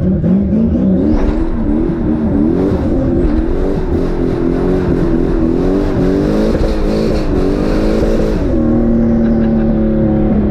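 Turbocharged 1998 Chevrolet Camaro SS's 5.7-litre V8 under way, its pitch rising and falling repeatedly with the throttle. About eight seconds in it settles into a steady note that sags slightly.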